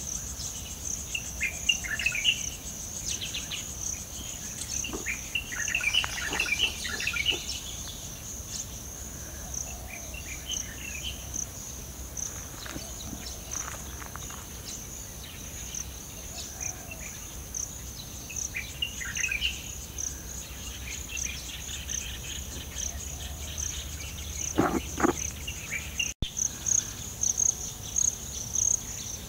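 A chorus of insects keeps up a steady, pulsing high trill, while birds chirp and call on and off over it. The sound cuts out for an instant near the end.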